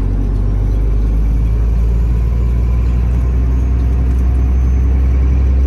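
Heavy truck's diesel engine droning steadily under load, heard inside the cab, slowly growing louder.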